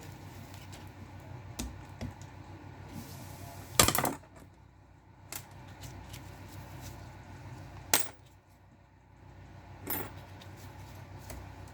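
Small metal parts clinking and knocking together as they are handled, a few sharp hard knocks over a low steady background. The loudest comes about four seconds in, with further strong knocks near eight and ten seconds.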